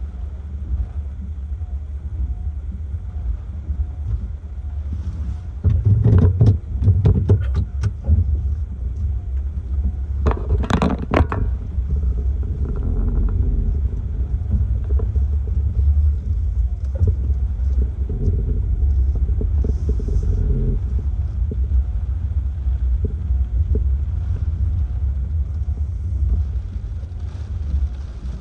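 Hurricane-force wind, a steady low rumble buffeting the microphone, broken by bursts of sharp rattling and knocking about six seconds in and again about eleven seconds in.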